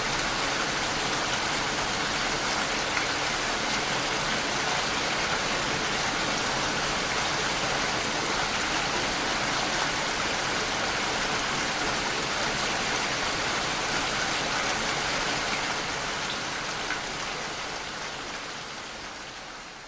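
Steady heavy rain falling, an even hiss that fades out over the last few seconds.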